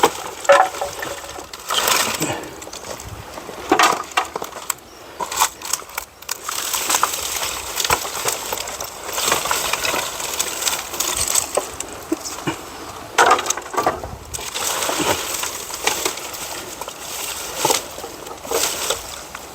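Dry wood crackling and snapping in irregular bursts, with rustling: firewood being gathered and broken up by hand.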